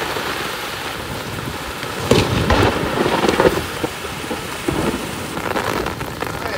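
Heavy rain falling steadily, with louder bursts of low rumbling between about two and three and a half seconds in.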